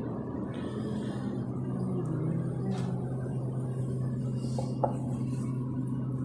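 Espresso machine running with a steady low hum; a single sharp click about five seconds in.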